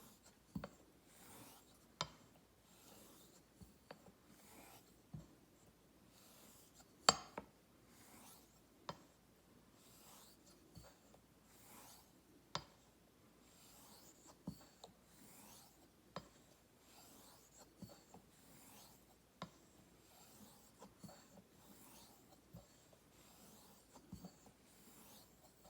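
Vintage 6/8-inch hollow-ground straight razor being honed on a whetstone: soft, repeated scraping strokes, with a sharp click every second or two as the blade is turned over on its spine. The loudest click comes about seven seconds in.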